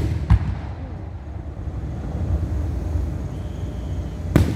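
Fireworks going off: two sharp bangs, one just after the start and one near the end, over a steady low rumble.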